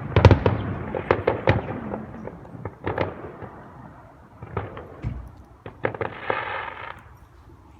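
Fireworks going off: a quick run of sharp bangs and crackles in the first two seconds, then scattered bangs thinning out, with a brief hissing burst about six seconds in.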